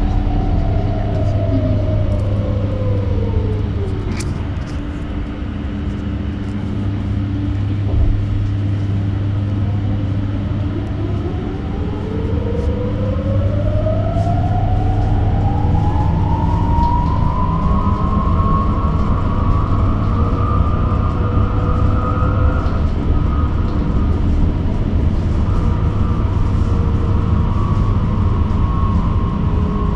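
Electric bus traction motor whining over a steady low hum. The whine falls in pitch as the bus slows during the first few seconds and dies away, then rises steadily from about eleven seconds in as the bus accelerates again and holds high near the end. A brief thump comes about eight seconds in.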